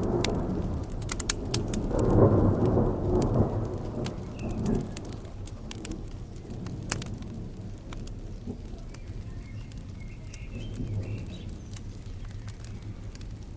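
A long roll of thunder rumbles over steady rain and fades away within the first few seconds. The sharp snaps and pops of a crackling wood fire run throughout.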